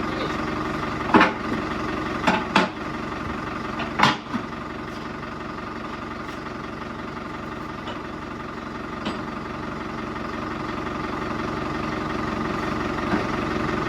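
Tractor engine idling steadily, with a few sharp knocks in the first four seconds.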